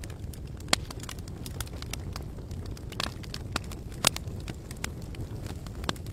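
Campfire crackling: irregular sharp pops and snaps throughout, the loudest about a second in and around four seconds in, over a steady low rumble.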